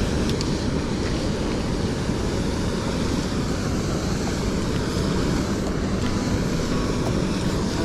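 Steady rushing of a small stream's flowing water, an even noise with no breaks.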